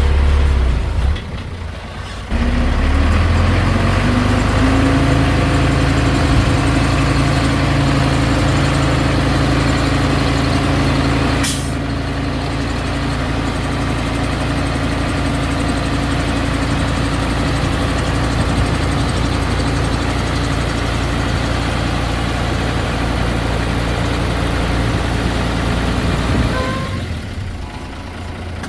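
Heavy diesel engine of earthmoving machinery working: its pitch rises about two seconds in and then holds steady under load, with one brief sharp sound partway through. The engine drops back near the end.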